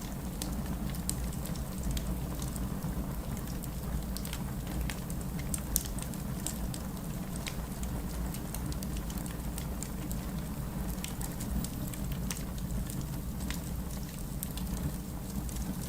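Steady rain with a low rumble, mixed with the scattered sharp crackles and pops of a wood fire burning in a fireplace.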